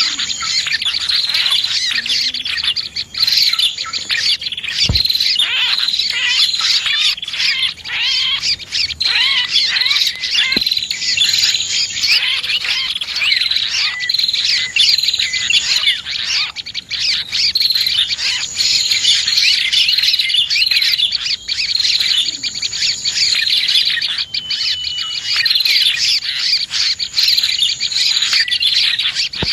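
Bird-luring recording of prenjak (prinias) and other small birds: a dense, unbroken chorus of rapid high chirps and twitters, with a high buzzy trill repeating every few seconds.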